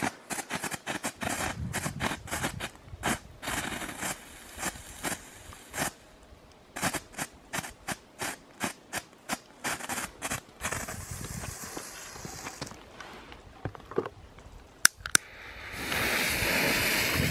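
Ground fireworks crackling: a quick, irregular run of sharp pops that thins out over about ten seconds. Then comes a soft hiss and two sharp cracks, and near the end a lit firework spraying sparks hisses loudly and steadily.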